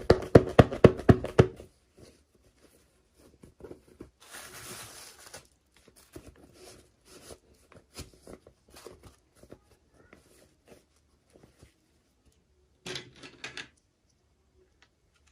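Hands unboxing a miniature toy in its plastic and paper packaging: a quick run of rattling clicks at the start, a brief tearing rustle about four seconds in, then scattered light taps and clicks, with another short burst of clicks near the end.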